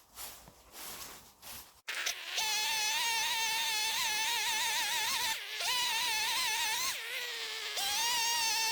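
Footsteps, then, after a break about two seconds in, a budget Titan two-stroke chainsaw running at high revs while ripping along an oak log, its pitch wavering under load. It drops briefly twice, the second time sagging lower for most of a second before revving back up.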